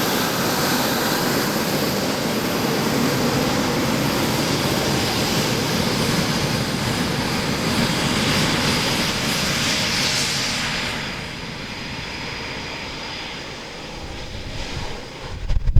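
Eurofighter Typhoon's twin EJ200 turbofan jet engines at high power during a fast pass. The jet noise is loud and steady, brightens around two-thirds of the way in, then fades quickly as the fighter moves away. Wind rumbles on the microphone at the very end.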